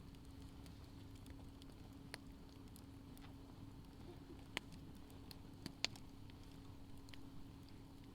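Wood fire in a fire stand crackling quietly, with a few sharp pops, the loudest about two, four and a half and six seconds in. A faint steady hum runs underneath.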